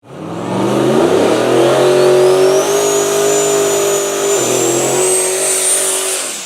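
Super stock pulling tractor's turbocharged diesel engine running hard, its note climbing over the first second or so and then holding, with a high turbo whine rising in pitch throughout. The engine note drops briefly about four seconds in, and the sound fades out at the end.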